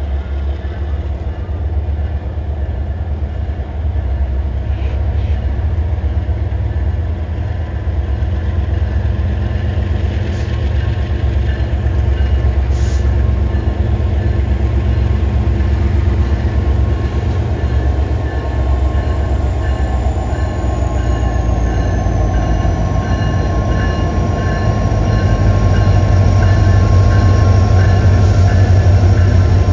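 Union Pacific freight train's diesel locomotives running past at close range, a steady deep engine rumble that grows louder as the units draw level, with a faint high tone sliding down about two-thirds of the way through.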